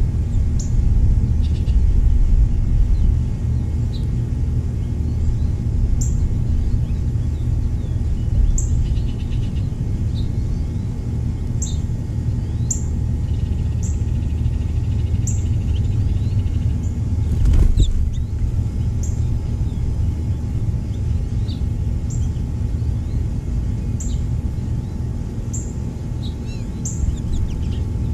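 Small songbirds giving short, high chirps about once a second, with softer chirps mixed in, over a steady low rumble. There is one brief sharp knock about two-thirds of the way through.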